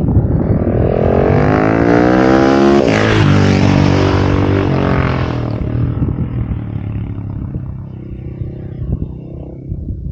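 KTM 690 SMC R single-cylinder engine accelerating through the gears: the revs climb, drop at an upshift about three seconds in, climb again, then the throttle closes about five seconds in and it runs on at lower revs.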